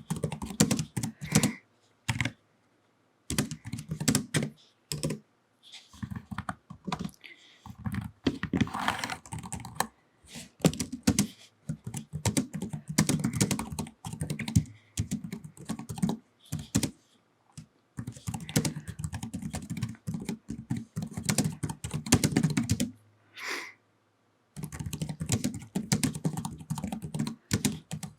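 Typing on a computer keyboard with long fingernails: fast runs of key clicks broken by a few short pauses.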